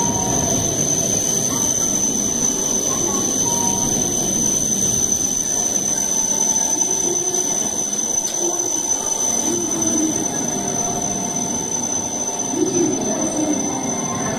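E7 series Shinkansen train rolling slowly alongside the platform as it pulls in to stop. The running rumble eases off about halfway through, under a steady high whine.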